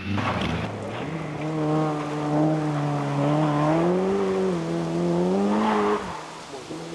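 Rally car engine running hard at high revs, its pitch climbing and wavering slowly, then dropping off abruptly near the end.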